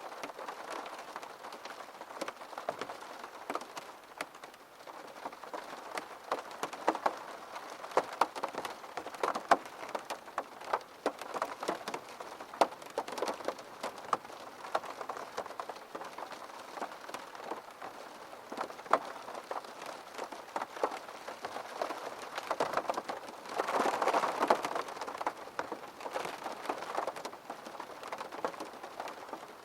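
Steady rain falling on a surface, with many individual drops hitting sharply through a constant hiss. About three-quarters of the way through, the rain swells louder for a couple of seconds.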